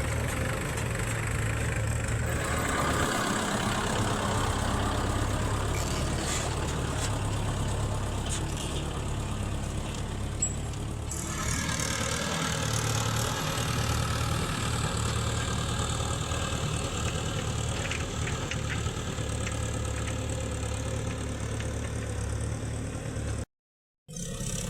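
Diesel engines of a loader and tractor running steadily during mud loading. The sound drops out completely for about half a second near the end.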